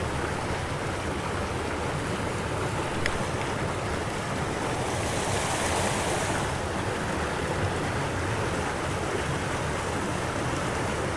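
Steady rushing outdoor noise of wind and moving water, with no distinct events apart from one faint click about three seconds in.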